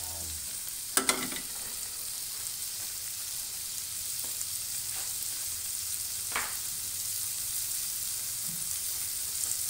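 Garlic-topped shrimp frying in oil on a flat pan, a steady high sizzle. Two sharp clicks come about a second in, and a shorter pop about six seconds in.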